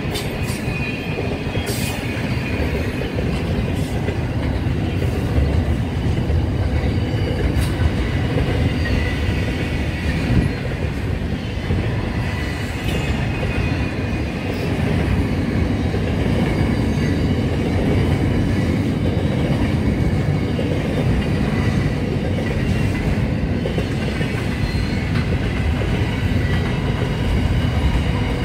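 Long freight train of container wagons rolling past: a steady rumble of wheels on the rails, with a faint high-pitched wheel squeal and occasional sharp clicks.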